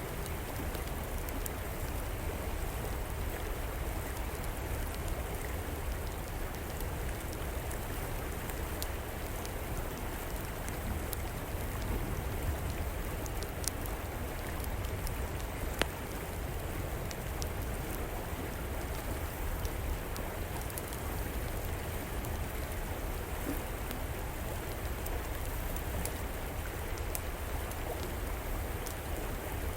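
River water flowing steadily, with occasional sharp crackles and pops from a wood fire.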